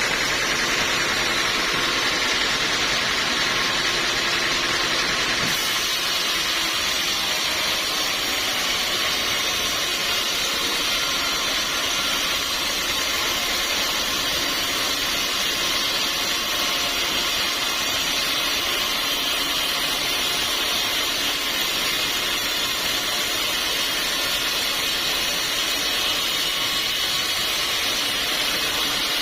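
Sawmill sawing a teak log: a steady, loud machine noise with a strong hiss from the cut, its pitch shifting slightly about five seconds in.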